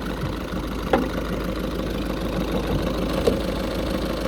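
Skoda Octavia 1.6 TDI diesel engine idling steadily, still cold, with two short clicks, about a second in and again near the end.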